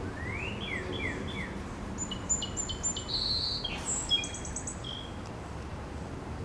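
Songbirds singing: a few quick rising notes, then a string of short high chirps and a brief rapid trill, dying away after about five seconds.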